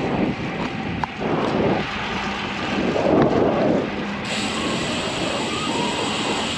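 Wind rushing over the microphone with road noise from a bicycle riding along a street, swelling twice; the hiss turns suddenly brighter about four seconds in.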